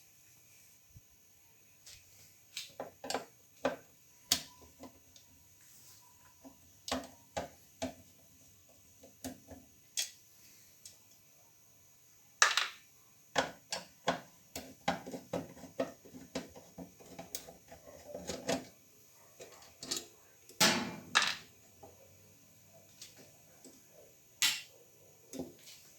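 Irregular clicks, knocks and clattering of hand tools and loose washing-machine parts being handled, busiest in the second half with a few sharp louder strikes.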